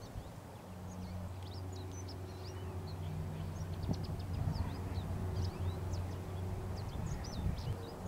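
Birds chirping: many short, high calls, some rising or falling, overlapping throughout. Under them runs a low, steady hum.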